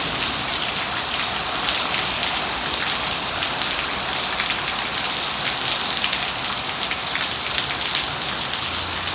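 Heavy rain falling steadily, a dense hiss of many drops striking surfaces.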